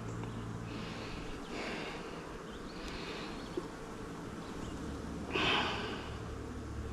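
Honeybees buzzing around an open hive during a frame inspection: a steady low hum. A few breathy puffs of air sound over it, the loudest about five and a half seconds in.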